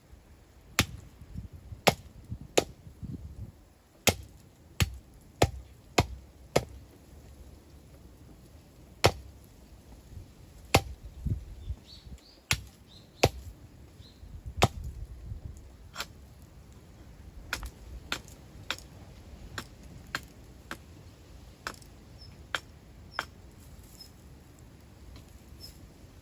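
Wood being chopped with a hand tool: a long series of sharp knocks at irregular intervals, mostly one to two seconds apart, some much louder than others.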